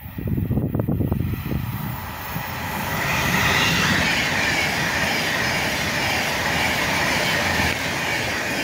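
Avanti West Coast Class 390 Pendolino electric train running through the station at speed without stopping. A low rumble at first, then from about three seconds in a loud, steady rush of wheels and air as the carriages pass close.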